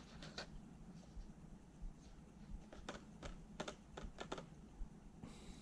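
Faint scattered light clicks and taps of hard plastic lures and their packaging being handled, a few clicks close together in the middle.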